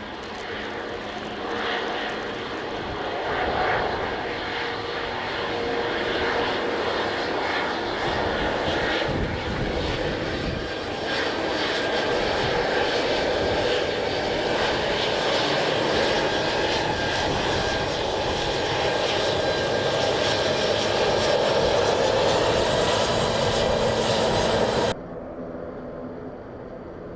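Jet airliner engines running, with a steady whine over a dense rushing noise, growing louder over about twenty seconds and then cutting off suddenly near the end.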